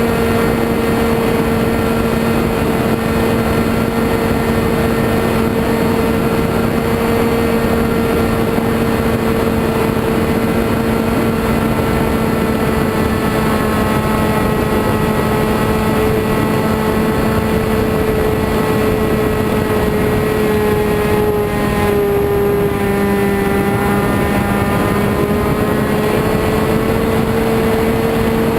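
RC model airplane engine running steadily at a high, even pitch over a dense hiss. About 22 seconds in, the pitch dips slightly, then climbs back.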